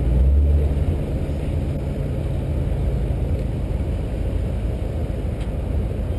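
Chevrolet C5 Corvette Z06's LS6 V8 idling with the car standing still: a steady low rumble that swells briefly in the first second.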